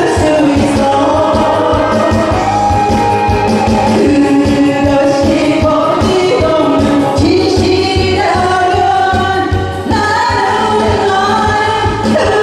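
Korean trot song sung live over a backing track with a steady beat, the singer's melody carried through the stage's sound system.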